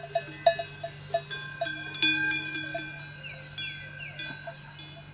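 Small bells clanking at an uneven pace, several strikes a second, loudest in the first half. A few short falling whistles come about three and a half seconds in.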